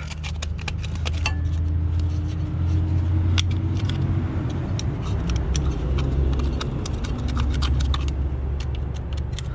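Small screwdriver clicking and scraping against metal as it breaks apart caked carbon gunk, over a steady low hum.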